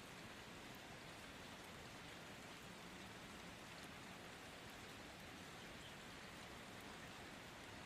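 Quiet, steady rain: an even hiss of rainfall that does not change.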